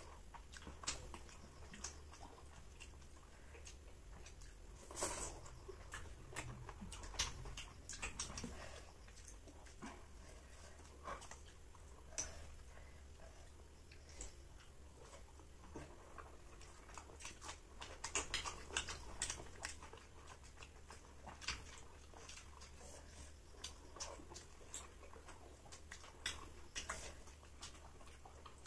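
Close-up eating sounds of flaky Malabar paratha with butter chicken eaten by hand: faint chewing with scattered soft, irregular mouth clicks.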